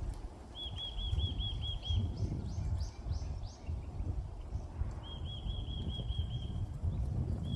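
Songbird singing: a rapid trill of repeated notes about a second and a half long, a run of higher, sharper notes, then a second trill. Low wind rumble on the microphone runs underneath.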